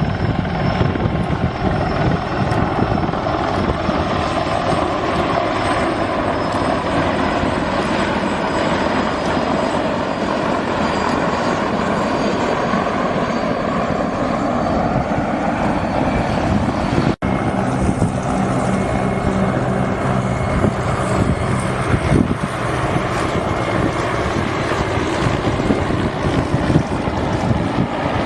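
Military helicopters flying overhead: loud, steady rotor chop with a thin, high turbine whine. The sound drops out for an instant about two-thirds through, then carries on with a steadier low hum.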